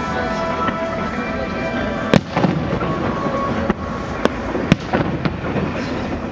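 Fireworks salute going off, with several sharp bangs from about two seconds in, over steady music.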